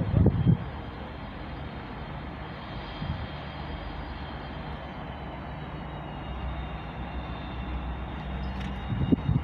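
Steady engine-like rumble of railway station ambience, with a faint high whine slowly falling in pitch. Louder, irregular low buffeting comes in the first half second and again near the end.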